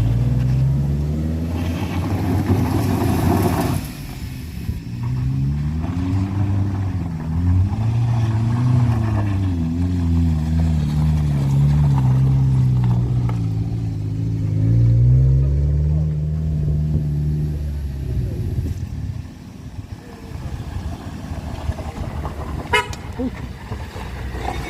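A vehicle engine straining under load, its pitch rising and falling again and again as it is revved to climb a steep, rough incline. A burst of rough noise comes about two seconds in, and a few sharp clicks come near the end.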